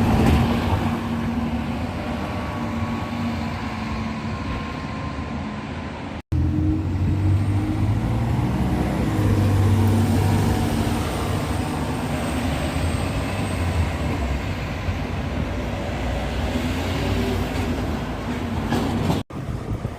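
A vehicle engine running steadily, heard in three clips joined by abrupt cuts, about six seconds in and near the end.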